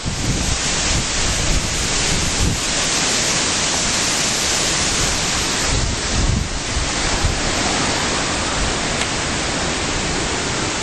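Strong, steady rushing wind from the remnants of Hurricane Ike, with gusts buffeting the microphone into a low rumble.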